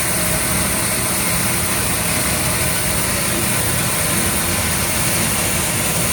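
Seed-sorting machinery running steadily: a constant mechanical rumble with a strong high hiss over it.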